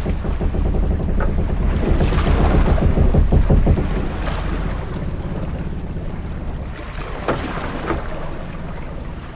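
Sea ambience of a sailing ship on open water: a heavy rumble of wind and waves that swells a few seconds in and eases off toward the end, with a few brief sharper sounds over it.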